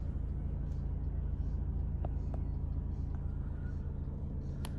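DAF XF106 truck's Paccar 460 bhp Euro 6 diesel engine idling steadily, with a few light clicks about two seconds in and a sharper one near the end.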